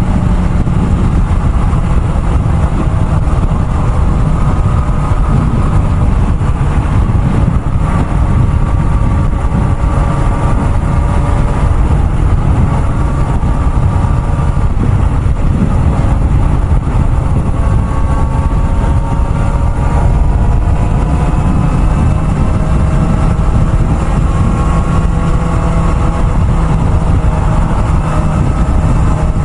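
Kawasaki ZX-4RR's inline-four engine running steadily at highway speed, its pitch drifting slowly up and down, under a loud, steady rushing noise.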